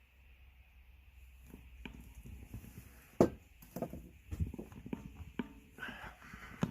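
Irregular knocks and clicks of tools and parts being handled, the loudest about three seconds in, with a brief hiss near the end.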